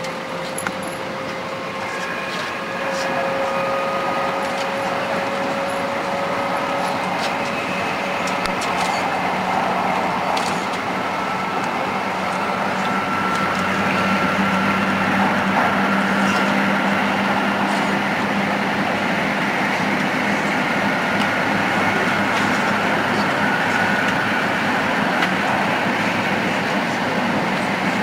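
Tohoku Shinkansen train's traction motors whining, several tones slowly rising in pitch as the train picks up speed, over steady running noise.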